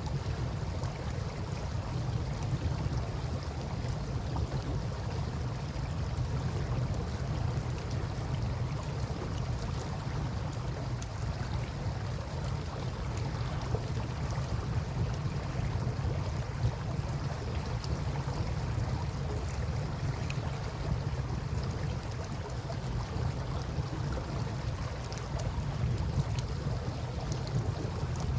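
Wood campfire crackling with scattered sharp pops over a steady wash of river water and a low rumble.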